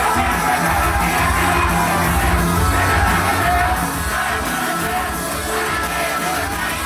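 Japanese idol-group pop song performed live over a backing track: girls singing in unison over a steady beat, with shouts from the audience.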